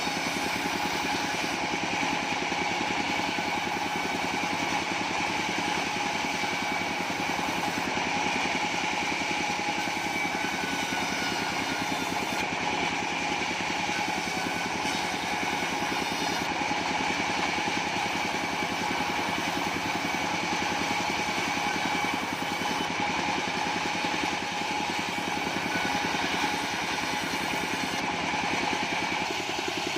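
Engine-driven bandsaw sawmill running steadily, its engine note unbroken with a steady high whine over it.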